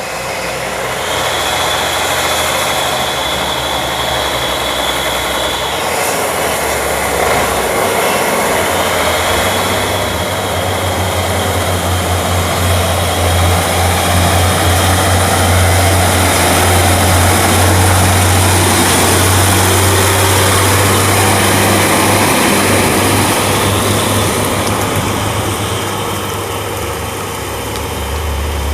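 Heavy logging truck's diesel engine running with a steady low drone, growing louder through the middle and easing off near the end.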